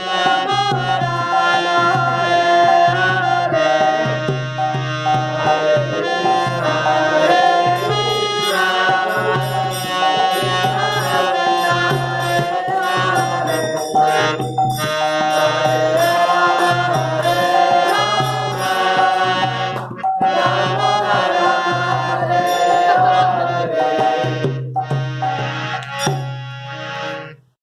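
Devotional kirtan: a voice chanting a mantra to harmonium and a hand drum keeping a steady beat. The music dies away near the end.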